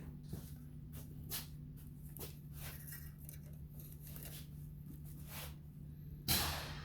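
Light handling sounds: scattered small clicks and rustles of multimeter leads and hands at work, with one louder rustle about six seconds in, over a steady low hum.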